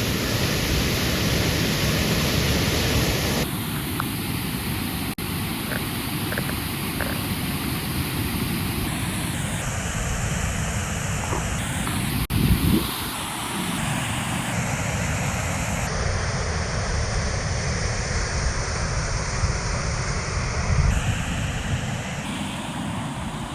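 Steady rushing roar of falling water from a waterfall. Its tone changes abruptly several times, as between cut shots, and there is a brief low thump about twelve seconds in.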